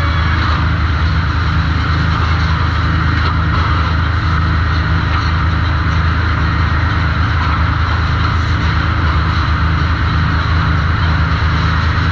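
Sawmill machinery running steadily around the trim saw: a constant low hum with a steady mechanical noise above it.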